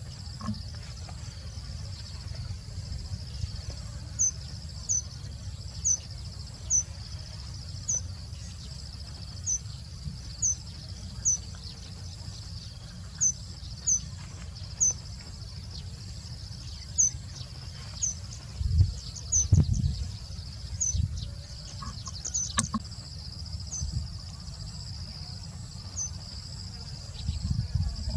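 Outdoor insect drone, steady and high, with a bird's short, high chirp repeated about once a second. A low rumble runs underneath, with a few louder low thumps about two-thirds of the way through.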